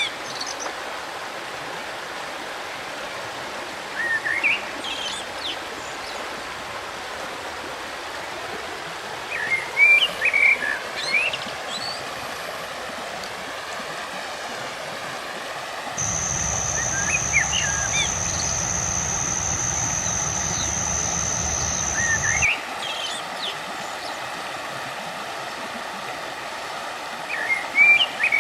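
River water running steadily, with small birds giving short chirping phrases every few seconds. About two-thirds of the way through, a steady high-pitched whine with a low hum beneath it starts suddenly and cuts off about six seconds later.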